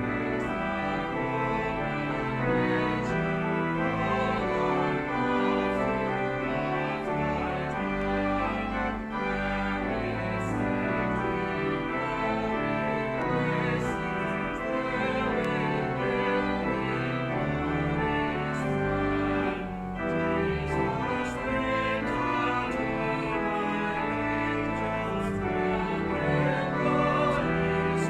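Church organ playing a hymn, with voices singing along.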